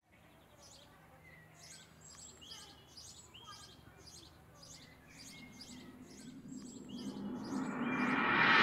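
Birdsong: one bird's short high chirps repeated about twice a second, with a few lower whistled notes between them. From about six seconds in, a whooshing swell rises and grows steadily louder until it drowns the birds.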